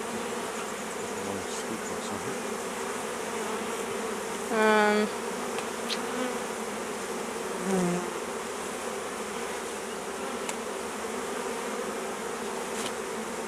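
Honeybees buzzing steadily around an open hive. Two louder single-bee buzzes stand out, one for about half a second around four and a half seconds in and a shorter one near eight seconds.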